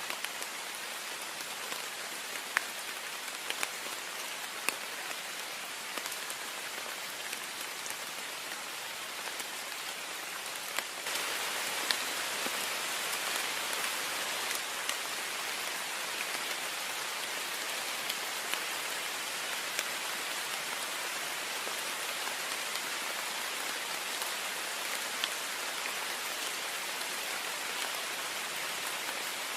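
Heavy rain on a window: a steady hiss with scattered sharp drop ticks, growing suddenly louder about a third of the way through.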